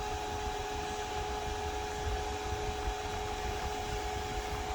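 Steady background hum: an even hiss with two constant tones and a low rumble underneath, unchanging throughout.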